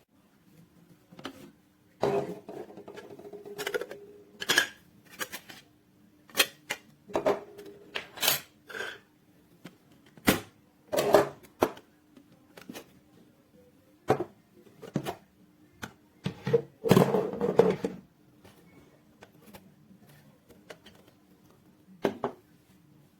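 Irregular knocks, clicks and clatter of hard plastic parts being handled and set down, with a few short rattling stretches. A faint steady hum runs underneath.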